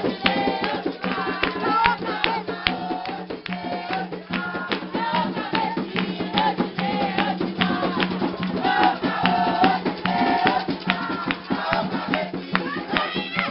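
Group singing a chant for Xangô over rattles and drums beating a steady, fast rhythm.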